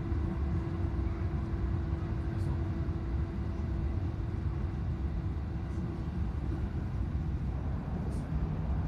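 Electric train running along the track, a steady low rumble heard from inside the carriage. A faint steady hum fades out about halfway through, and a lower hum comes in near the end.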